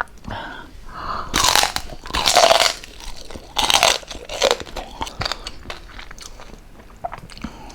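Close-up crunching bites into crispy fried pork jowl: three loud crunches in the first four seconds, then softer chewing with small crackles.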